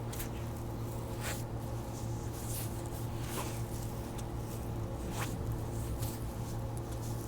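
Hands rubbing and pressing on a bare foot during a deep-tissue foot massage, picked up close by wrist microphones: soft brushing swishes about every second, over a steady low hum.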